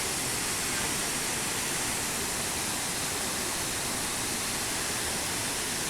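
Hundru waterfall crashing: a steady, unbroken roar of falling water.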